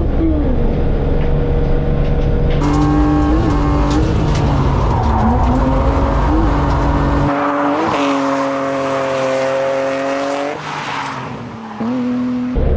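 BMW E36 328's M52 straight-six engine running at high revs while drifting, the revs dipping and climbing again several times, with tyres squealing as the car slides.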